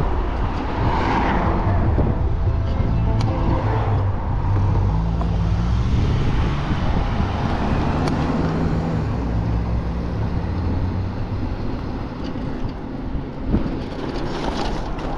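Road traffic: cars going by over a steady low rumble, with one passing more loudly about a second in.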